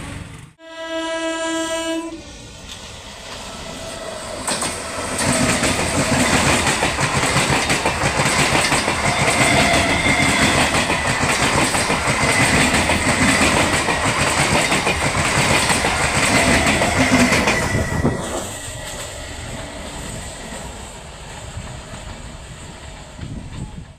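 Electric multiple unit (EMU) local train sounding its horn once, a short single note about a second long, then passing at speed with its wheels clattering rhythmically over the rail joints. The passing lasts about fourteen seconds, then dies down to a lower rumble.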